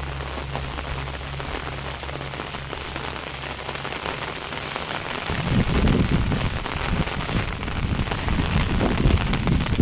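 Steady rain falling on surfaces, with a low pulsing hum in the first half. About five seconds in, a low, uneven rumble joins the rain and the sound gets louder.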